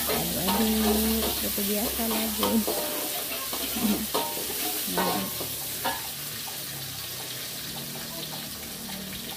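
Bawang (onion/garlic) sautéing in hot oil, a steady sizzle, while a spatula stirs it in the pan with a few sharp clinks and scrapes against the metal.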